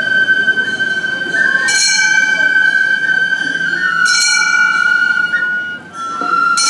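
Gion bayashi festival music: a transverse bamboo flute holds a long, steady high note, breaks off briefly near the end and resumes a little lower, while a small hand gong (kane) is struck about every two and a half seconds, each strike ringing on.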